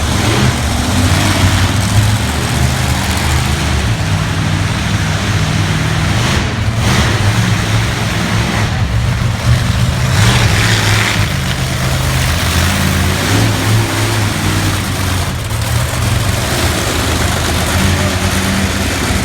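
Monster truck engine running loud and revving, its pitch stepping up and down.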